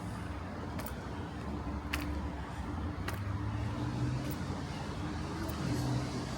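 Road traffic on a busy city street, with vehicle engines running as a steady low hum. A light click repeats about once a second over it.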